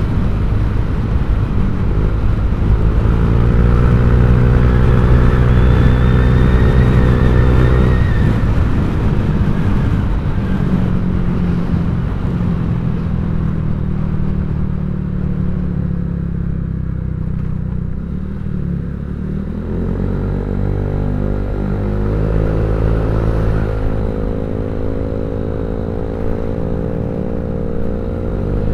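Honda Vario 150 scooter's single-cylinder engine running through an aftermarket ZRC copy-CMS exhaust, pulling up in revs a couple of seconds in, holding, easing off, then picking up again in the second half.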